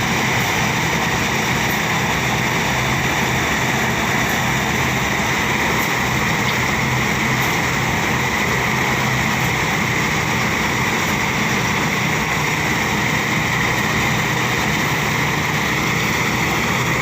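Engine-driven rice threshing machine running steadily, a constant mechanical noise.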